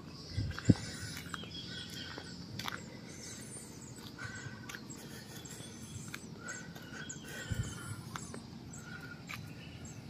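Outdoor ambience of small birds chirping on and off, with a sharp knock just under a second in and a softer low thump about seven and a half seconds in.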